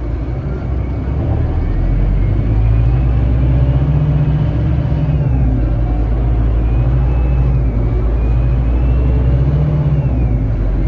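Scania K310IB bus's diesel engine pulling under acceleration: its note climbs, falls back about halfway through as at a gear change, then climbs again, with a thin high whine rising along with it.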